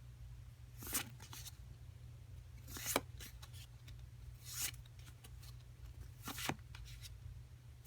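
Faint, short rustles and scrapes of trading cards and a foil booster-pack wrapper being handled, four or five brief sounds a second or two apart, over a steady low hum.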